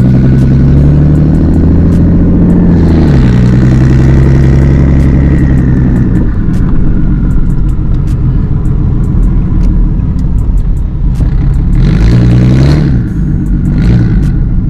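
Car engine running steadily at low revs. Its pitch drops about three seconds in, and near the end it gives two quick rev blips, rising and falling.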